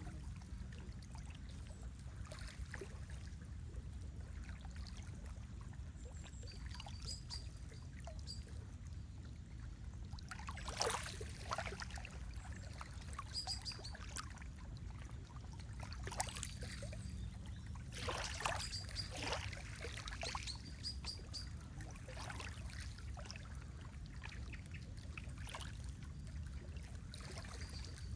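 Lake water lapping and splashing against the shore in irregular waves over a steady low rumble, with a few faint, short, high bird chirps.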